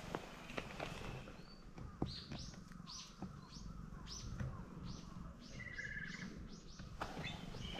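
A bird calling: a run of repeated high, sharp notes, about two a second, with a short twittering trill near the end, over a faint low background hum and a few light ticks.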